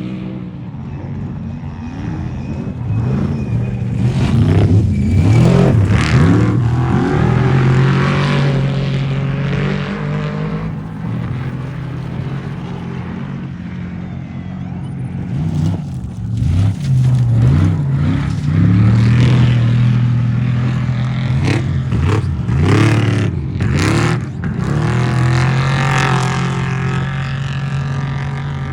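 Off-road race vehicle engines revving hard, the pitch rising and falling again and again with throttle and gear changes. The engines swell loud around 4–8 s and again from about 16 s on, with short sharp breaks in between.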